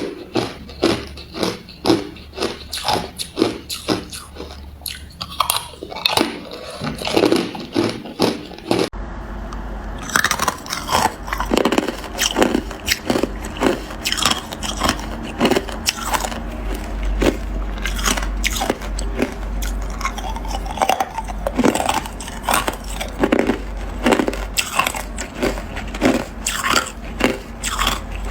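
A person biting and chewing ice close to the microphone: a steady run of sharp, crunching bites, about two a second.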